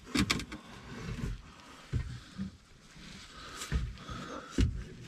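Irregular knocks, clunks and rubbing from hands working a cat-back exhaust into its rubber hangers under a car, with a few low thumps.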